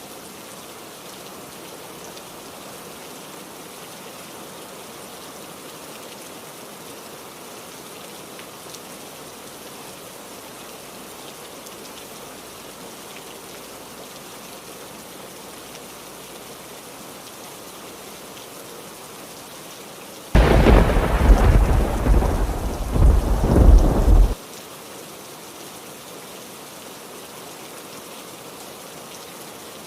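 Steady heavy rain, with a loud clap of thunder about two-thirds of the way through. The thunder rumbles for about four seconds, swells twice, and then cuts off abruptly.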